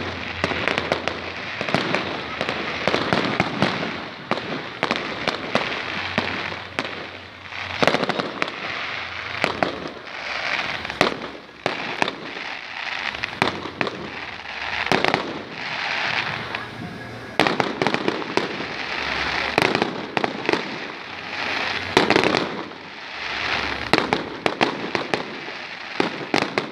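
Fireworks going off: a continuous run of sharp bangs and crackling, swelling in waves every couple of seconds.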